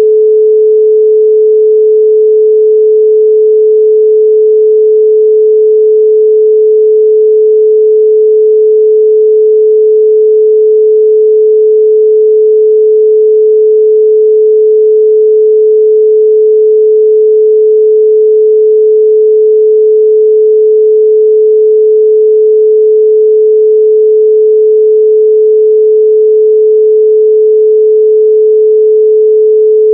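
A 432 Hz pure sine tone held steady and unbroken.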